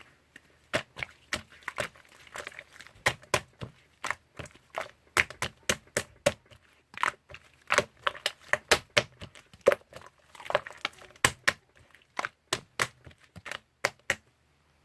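Irregular sharp clicks and crackles, one to three a second, with softer crinkling between them, like something being handled or tapped close up.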